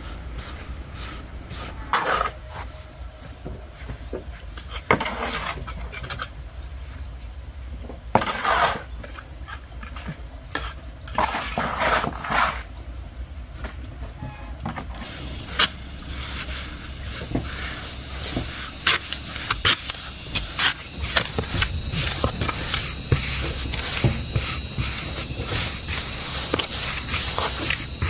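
Scattered knocks and scraping strokes of hand work, coming thicker in the second half.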